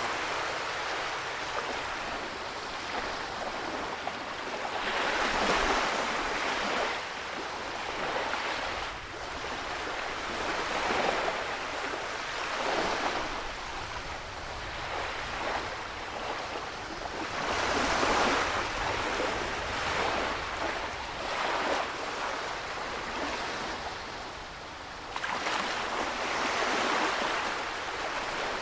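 Atlantic Ocean waves breaking on a rocky shore. Each surge swells up and washes back, about every three to five seconds.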